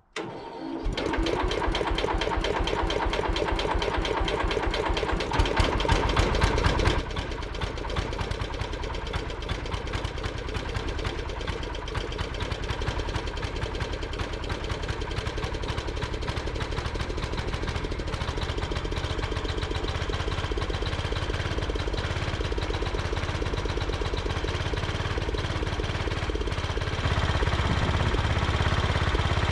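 MTD 990 garden tractor's small engine catching on its first start-up and settling into steady running. It runs louder for a couple of seconds, drops back about seven seconds in, and picks up slightly near the end.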